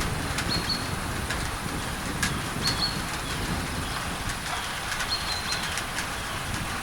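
Rain on a tin roof under a steady layer of pink noise, with scattered sharp drip ticks. A bird repeats a short, high, level whistle about every two and a half seconds.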